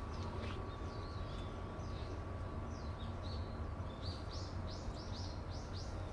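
Small bird chirping: scattered high chirps, then a quick run of about six falling notes around four seconds in, over a steady low outdoor rumble.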